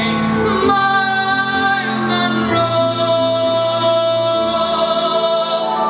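A show tune with instrumental accompaniment: a singer draws out the word "miles", holding one long, steady note through most of the second half.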